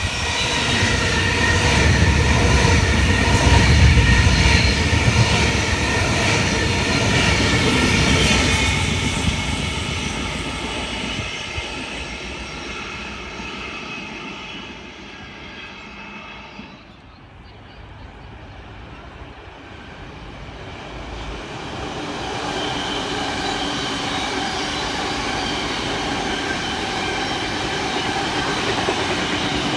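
Double-deck electric suburban train passing along the track, its rumble building to a peak a few seconds in and fading away over about ten seconds. Later a steadier whine with several held tones from electric train motors.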